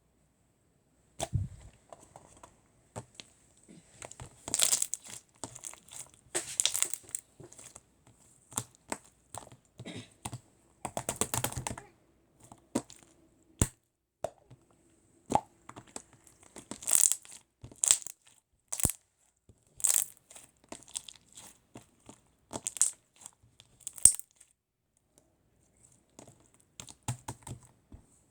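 Jelly-textured slime being squished and pressed by hand, giving irregular crackly clicks and snaps with short louder bursts of popping between quiet gaps.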